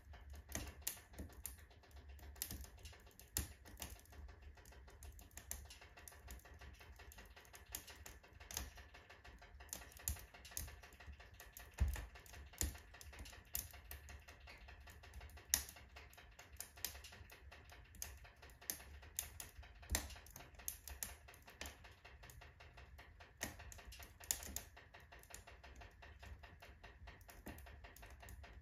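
Wood fire crackling in a wood-burning stove with a full firebox: irregular snaps and pops, several a second, with a few louder cracks, over a faint low steady rumble.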